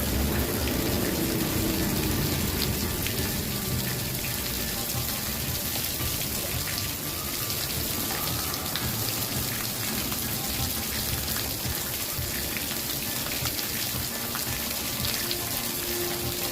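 Campfire crackling with scattered sharp pops over a steady hiss of rain.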